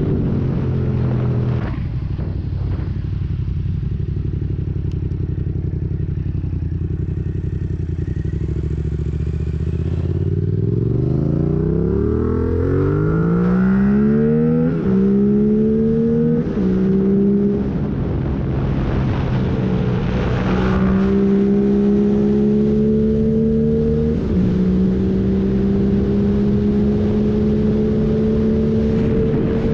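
Yamaha MT-07's parallel-twin engine through a full MIVV exhaust with no catalyst and no dB killer, under way on the road. It runs low and steady at first, then revs up hard with quick upshifts about halfway through, and goes on at steadier, higher revs with brief drops at further gear changes.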